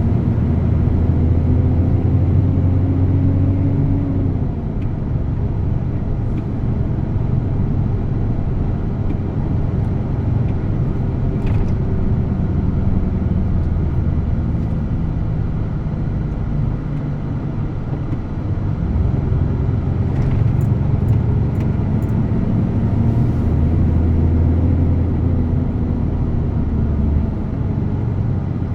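DAF truck's diesel engine running under way over a steady low rumble, its note climbing and then dropping away about four seconds in, then climbing again from about twenty seconds in and falling off near the end.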